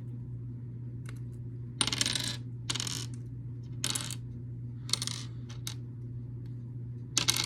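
Loose small plastic building bricks clattering and rattling as they are handled, in about five short bursts with a few small clicks between.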